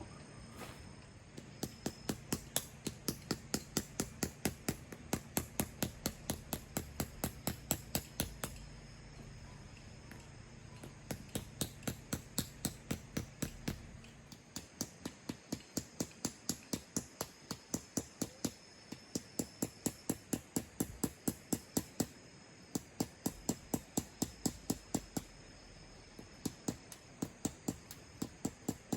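Rapid, regular hammer strikes, about four a second, in runs of several seconds with short pauses between them. A low steady hum runs underneath for the first half and then stops.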